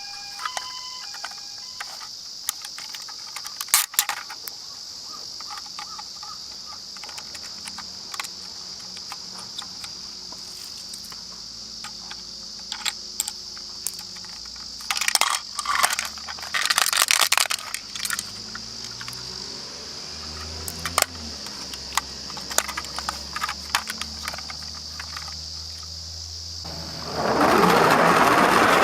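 Die-cast toy minicars clicking and clattering as they are handled and roll, with a few sharp taps in the middle and a loud stretch of rolling rattle near the end, over a steady high hiss.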